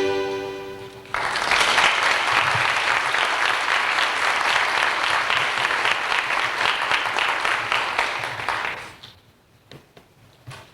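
A song's last sustained chord fading out, then an audience applauding for about eight seconds, dying away near the end.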